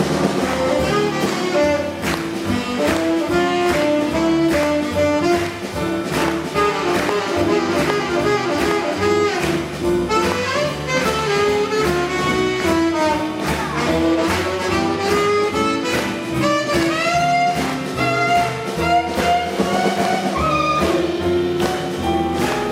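Live jazz combo playing, with a saxophone carrying the melody over piano, bass and drums.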